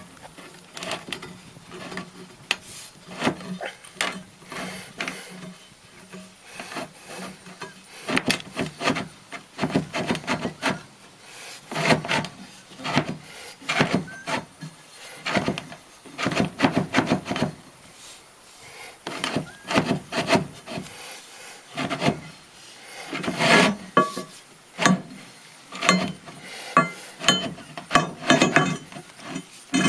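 Irregular scraping and rubbing against wood in strokes of a second or less, as an axle and bolt are worked into the wooden frame of a chicken tractor, loudest a little past two thirds of the way through.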